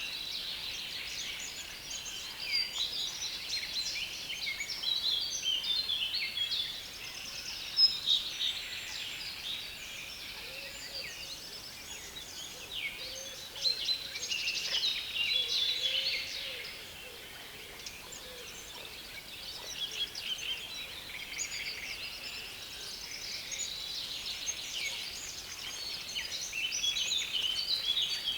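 Dense chorus of songbirds in a reed bed: many overlapping, fast chattering songs that swell and ease in waves every few seconds. A faint, lower wavering call sounds in the background around the middle.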